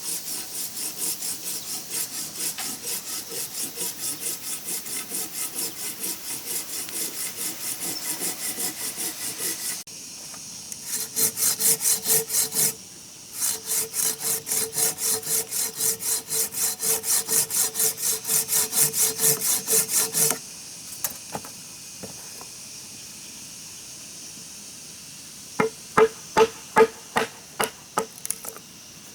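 Hand saw cutting wood in quick, even strokes, about two to three a second, with two short breaks. The sawing stops about two-thirds of the way through, and near the end come a handful of sharp knocks.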